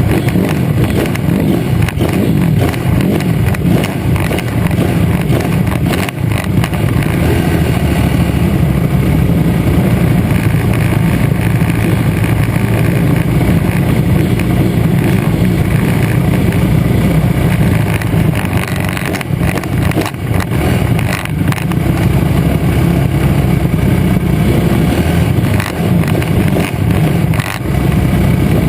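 Pit bike engines running hard under racing throttle, a loud, steady motor sound.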